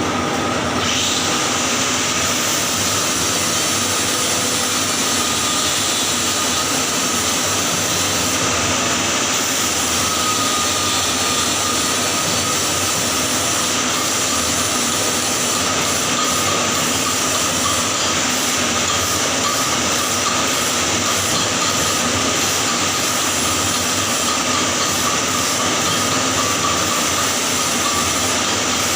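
Electric welding arc burning steadily on a pipe joint in the 6G position, a continuous even hiss with no breaks.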